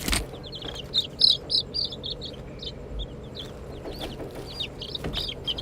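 Baby chicks peeping: many short, high cheeps in quick, irregular succession, with a single bump right at the start.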